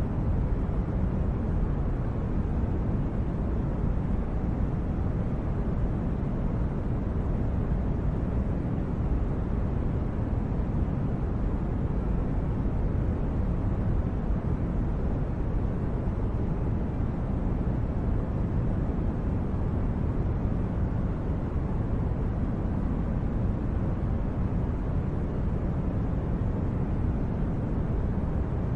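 Steady, deep noise, even throughout with no tones or rhythm: a low rumbling background noise bed of the kind laid under sleep recordings.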